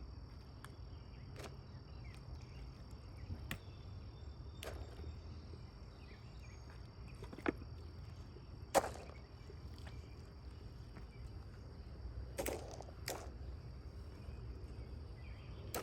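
Crickets chirring steadily over a low rumble, with scattered sharp clicks and knocks, the loudest about halfway through.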